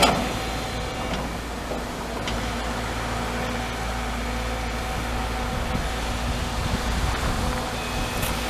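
Crawler excavator running steadily, a diesel drone with a low rumble and a steady hum, with a sharp knock right at the start.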